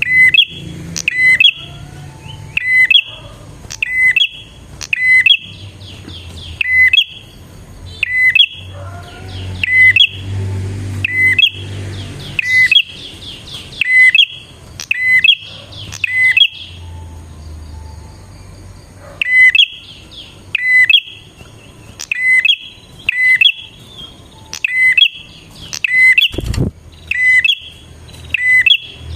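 Prinia (prenjak) calling: sharp, shrill chirps repeated steadily about once a second, with a pause of about two seconds midway. A short dull thump sounds once near the end.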